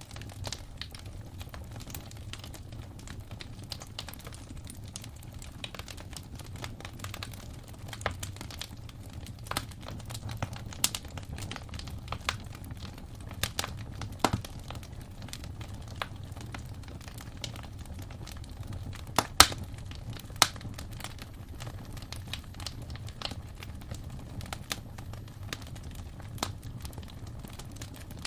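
Wood fire in a fireplace crackling, with irregular sharp pops over a steady low rumble of the flames; two or three louder pops come about two-thirds of the way through.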